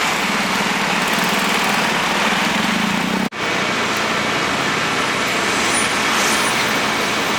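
City road traffic: a steady wash of vehicle noise with a low engine hum from a large vehicle running nearby. The sound breaks off for an instant about three seconds in, and the hum is gone after it.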